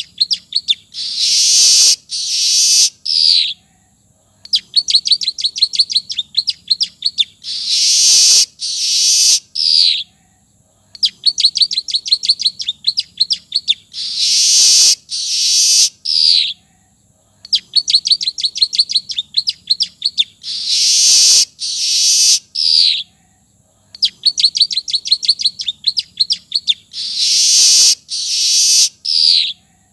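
Weaver (manyar) song repeated in a loop: each phrase is a fast run of ticking notes followed by three or four loud, harsh wheezy notes, the last one sliding in pitch, then a brief pause before the next phrase, about every six and a half seconds. It is a bird-training recording with prinia (ciblek) notes worked into the song.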